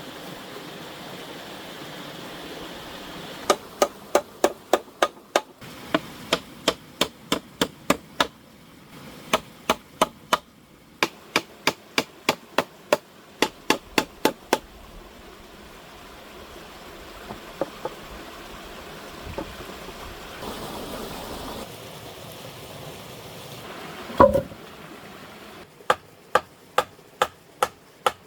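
Hand-tool strikes in quick runs of sharp, evenly spaced knocks, about three to four a second, with a pause between runs and one heavier single knock near the end. Steady rushing water runs under it.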